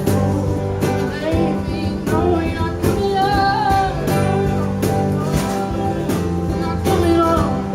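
Live acoustic country music: strummed guitar over a cajon beat, with singing.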